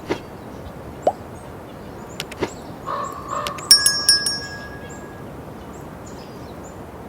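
A few sharp clicks and knocks, then a metallic clink that rings briefly about four seconds in, over a steady background hiss with faint high chirps.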